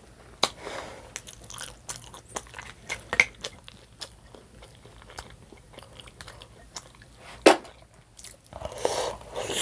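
Close-up eating sounds: biting and chewing with wet mouth clicks and crunches, in irregular bursts, with one sharp louder click about seven and a half seconds in.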